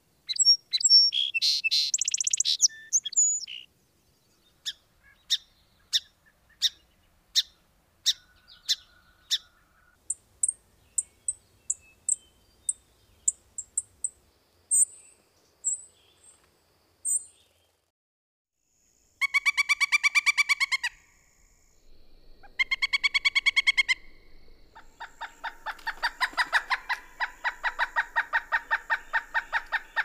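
Songbird calls and song. A short dense burst of song is followed by a string of sharp chips, about three every two seconds, then scattered high thin notes. In the later part come two longer buzzy calls made of rapid pulses, then a long run of rapid pulsed calls.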